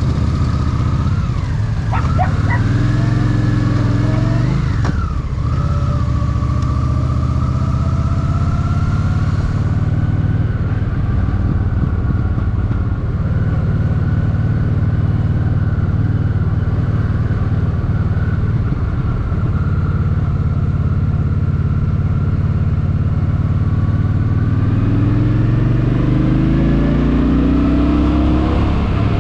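Honda Shadow VT750's V-twin engine running under way with wind and road noise. The engine note dips and rises a few seconds in, holds steady while cruising, then climbs near the end as the bike accelerates.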